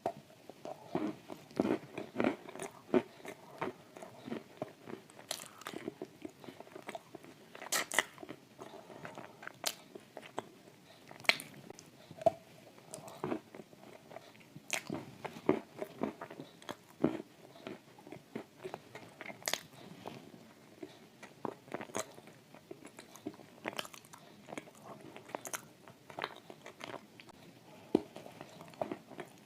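Close-up biting and chewing of dry shortbread cookies coated in thick clay paste: irregular crunches and crackles, with wet mouth sounds between them.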